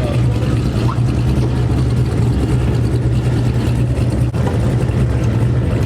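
A car engine idling, a steady low-pitched drone that holds level without revving.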